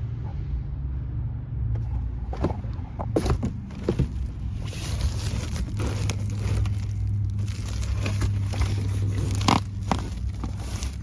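A vehicle engine running with a steady low hum, with scattered knocks, clicks and rustles over it.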